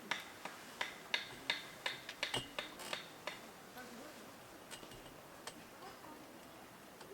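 A quick run of light, sharp clicks and taps, about two to three a second, thinning out to a few scattered ones after about three and a half seconds.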